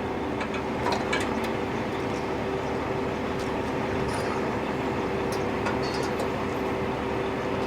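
Heavy tow truck's engine running steadily with a constant hum, with a few light metallic clicks and knocks as the float's gooseneck is coupled back to the truck.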